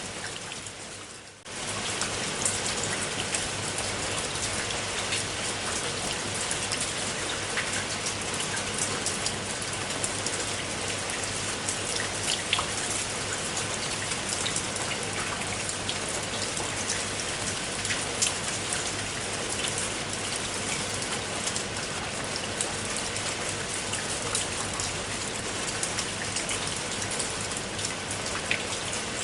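Steady rain falling, with many separate drop hits ticking through the hiss. The sound fades down briefly near the start and comes back within about a second and a half.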